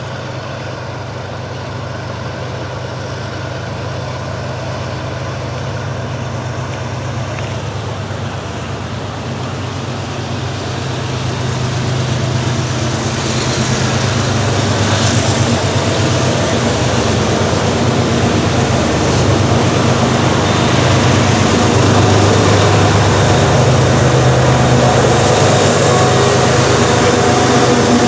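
Diesel locomotives of a freight train pulling out of a siding, their engines working under load in a steady low drone that grows louder as the train approaches.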